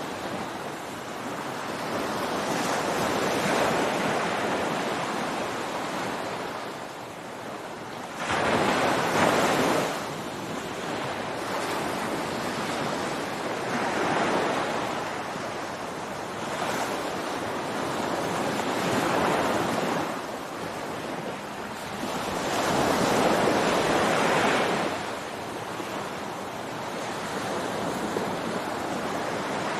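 Ocean surf breaking on a beach, a continuous wash of water that swells and ebbs every few seconds. Two waves crash louder than the rest, one suddenly about a third of the way in and another about three quarters through.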